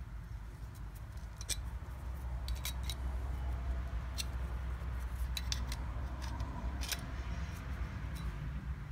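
Irregular sharp metallic clicks of a wrench turning the forcing screw of a small bearing puller, drawing a bearing off an ABS pump motor's armature shaft, over a low steady hum.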